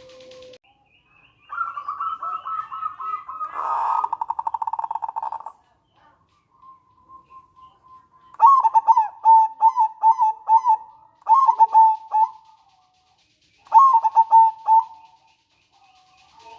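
Zebra dove (perkutut) calling: a fast rattling trill that swells over about four seconds. After a pause come two phrases of short, clipped cooing notes, each note dipping in pitch.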